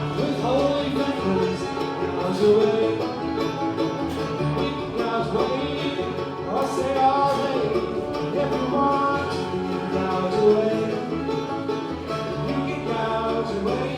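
Live bluegrass band playing a tune, with plucked strings driving it at a steady level.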